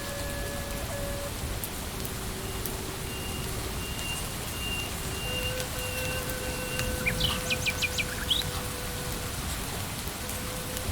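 Steady forest rain hissing, with scattered drops tapping, at moderate level. About seven seconds in, a bird gives a quick run of about five chirps. Long, held steady tones sit underneath.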